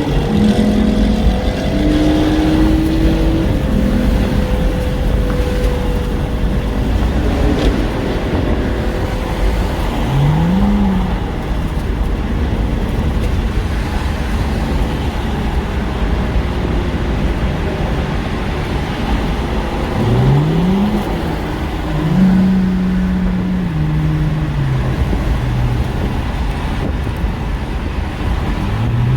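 Steady road and wind noise from a moving car, with a car engine accelerating hard three times, its pitch rising steeply each time, about ten seconds in, about twenty seconds in, and just at the end, and holding a steady note for a few seconds after the second run.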